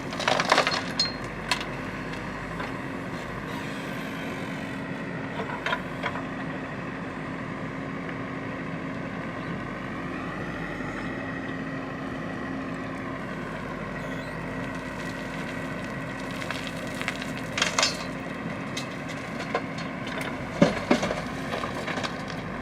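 Heavy machine's diesel engine running steadily, with a few sharp knocks and clanks about half a second in, around six seconds in, and again near the end.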